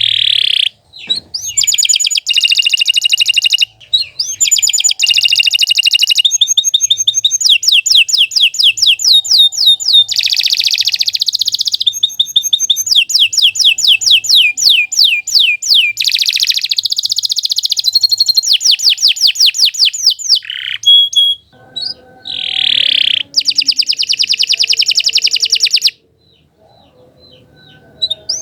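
Domestic canary singing a long, continuous song of fast trills and rolling repeated phrases, with a few brief pauses, then falling quiet about 26 seconds in.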